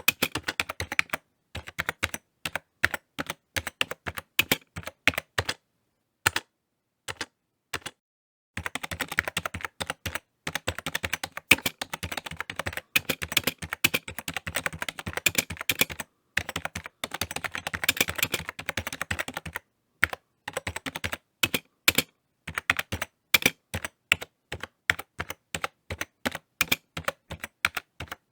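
Typing on a computer keyboard: quick runs of key clicks in irregular bursts, with a pause of a few seconds about six seconds in before faster, continuous typing resumes.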